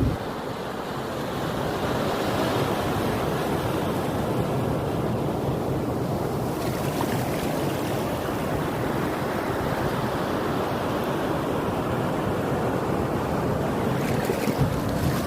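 Ocean surf: waves breaking and washing onto the beach in a continuous, steady rush.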